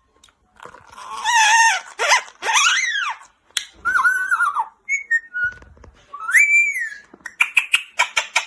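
Pet parrot whistling and calling: a string of loud, pitched whistles and squawks that slide up and down in pitch, followed near the end by a quick run of short clicks.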